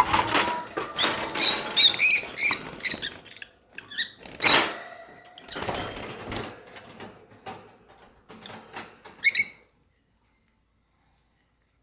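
Lovebirds chirping and squeaking in short, high, wavering calls, with one louder harsh burst about halfway. The sound cuts off abruptly about two-thirds of the way in, leaving silence.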